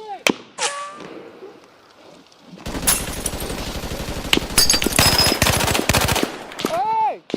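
Gunfire in a firefight: a single sharp shot just after the start, a quieter lull of about two seconds, then about three and a half seconds of continuous rapid automatic fire. A short pitched sound comes near the end.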